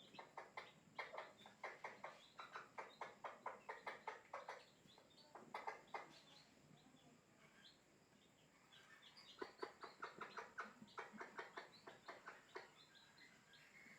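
Broody hen clucking in quick runs of about five short clucks a second, with a pause in the middle before a second run.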